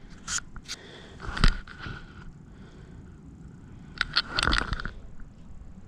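Scattered clicks, knocks and scrapes of hands working on parts: a few light clicks, a sharper knock about a second and a half in, and a quick cluster of clicks around four seconds in.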